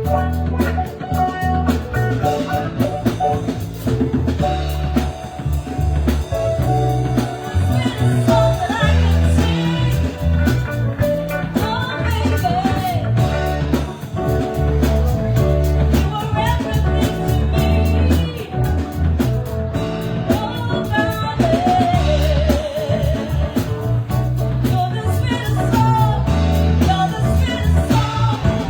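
Live band music played through a PA, with a drum kit and a strong bass line under a wavering melody line.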